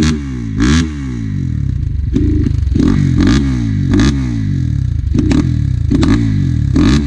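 Enduro motorcycle engine revved in a series of short throttle blips, its pitch rising and falling with each rev, quick at first and then more spaced out.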